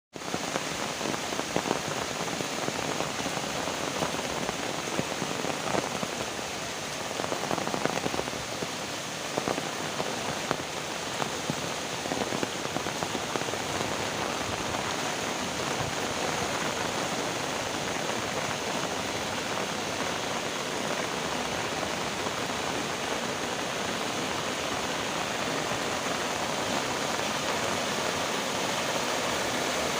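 Heavy rain falling, a steady dense hiss with many sharp drops ticking on surfaces, the drop hits most distinct in the first half.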